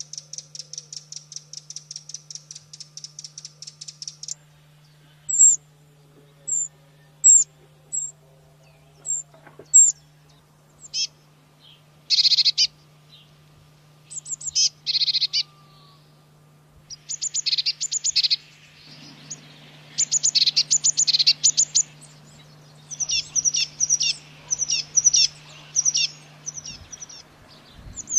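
Domestic canary singing in varied phrases. It opens with a fast, even trill of about ten notes a second, then gives single high chirps, short buzzy rolls, and more trills and repeated notes near the end.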